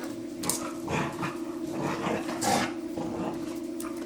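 Dog making short, irregular play growls and huffs, over a steady low hum.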